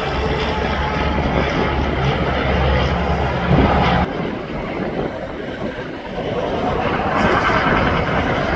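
Interstate traffic: a heavy truck's engine drone with tyre noise, cut off abruptly about four seconds in, then the rush of passing vehicles fading and building again.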